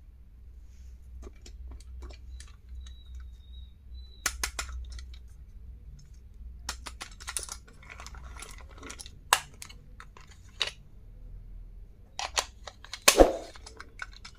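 Small plastic and paper stationery items being handled and unpacked: scattered clicks, taps and rustles, busier in the second half, with a sharper knock near the end.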